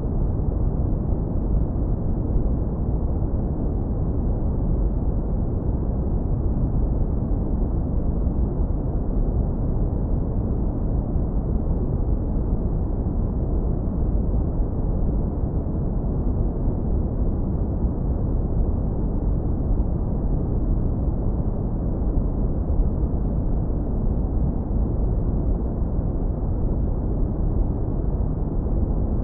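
Synthetic brown noise, heavily low-passed so that only a deep, warm rumble remains, running steady and unchanging.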